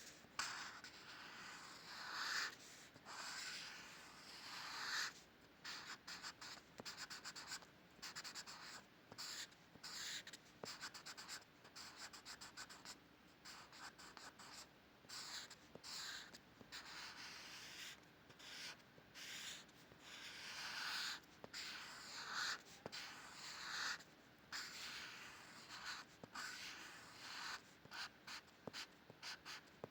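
Drawing tool scratching across paper: short strokes come in quick runs with brief pauses between them.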